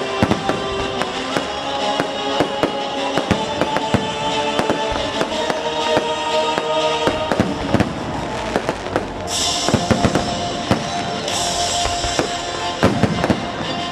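Aerial fireworks bursting overhead: a continuous string of sharp bangs and pops, with two spells of high crackling hiss, each about a second long, around nine and eleven seconds in.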